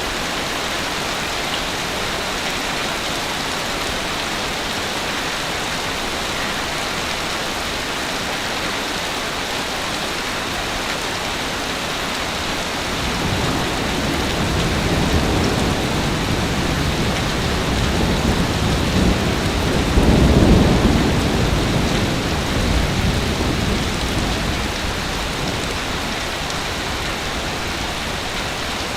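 Ocean surf on a beach: a steady hiss of breaking water, with a wave building in a deep rumble from about halfway through, breaking loudest about two-thirds of the way in, then washing back down to the steady hiss.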